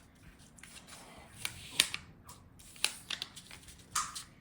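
A sheet of paper being folded and creased by hand: irregular crisp rustles and crackles, the sharpest about two seconds in.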